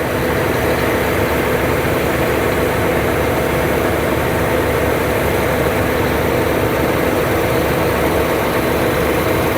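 Heavy diesel engines of a concrete pump truck and a ready-mix concrete truck running steadily while concrete is pumped, an even drone with a low hum.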